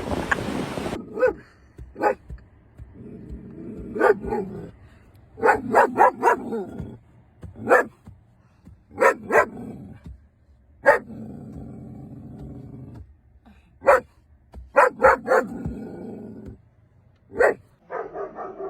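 A dog barking in sharp single barks and quick runs of two or three, every second or two, with stretches of low growling in between.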